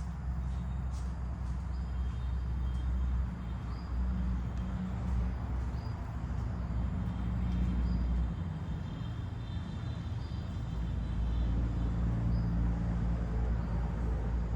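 A small bird calls with a short, high note about once a second, and gives a longer high trill about halfway through. Beneath it runs a steady low outdoor rumble.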